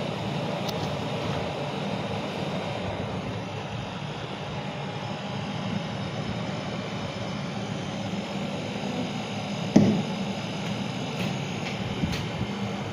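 Haier refrigerator's newly fitted compressor running with a steady low hum after a refrigerant gas recharge. A single sharp knock about ten seconds in.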